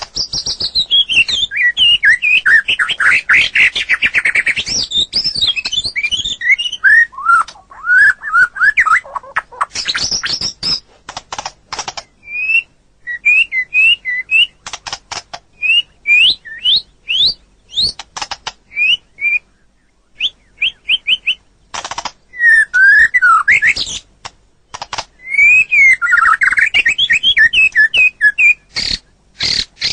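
White-rumped shama (murai batu) singing a long, varied song of fast sweeping whistled notes mixed with sharp clicking notes, broken by short pauses.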